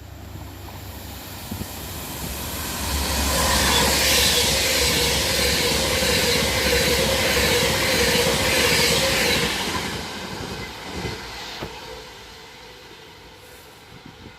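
Avanti West Coast Class 390 Pendolino electric train passing at speed: wheel-on-rail noise and rushing air swell over the first few seconds, stay loud with a steady hum for about seven seconds, then fade away.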